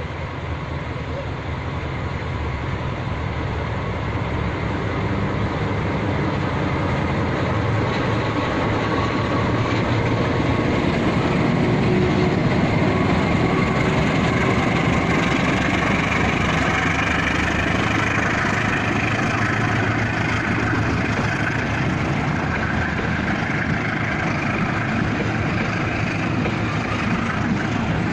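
Passenger train running, growing louder over the first dozen seconds and then holding steady.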